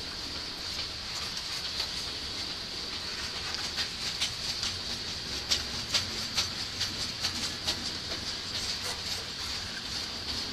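Covered hopper cars of a long grain train rolling past on steel wheels: a steady high hiss of wheels on rail, with quick clicks as the wheels cross rail joints, thickest in the middle.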